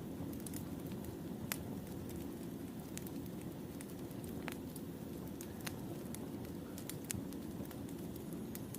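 Burning firewood crackling: a steady low rumble with sharp, irregular pops and snaps scattered through it.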